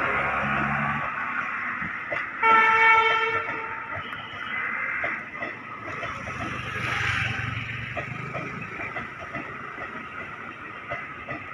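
Indian Railways electric locomotive horn sounding one toot of about a second and a half, a couple of seconds in. Around it a passing express train rumbles, with repeated clicking of wheels over the rails.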